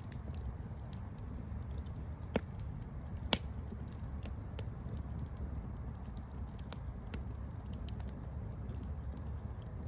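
Campfire burning with a steady low rumble and scattered sharp crackles and pops from the burning wood, two louder pops a second apart a couple of seconds in.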